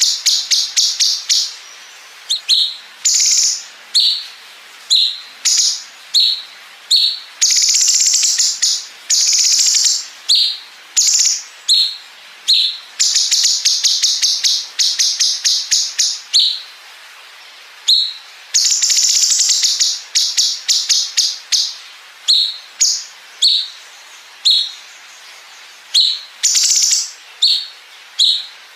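Cucak cungkok (blue-winged leafbird) singing. Short high chirps alternate with long, very rapid staccato trills of repeated notes, the machine-gun-like 'bren' phrases.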